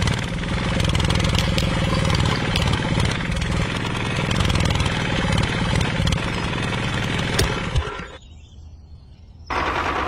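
Small engine of a DIY mini tractor running steadily, then cutting off about eight seconds in.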